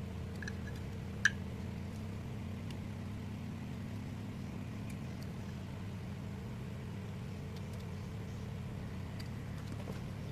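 Homemade mini grinder built from a hard drive's brushless spindle motor, driven by an ESC, running at a steady speed with an even hum, and one sharp click about a second in.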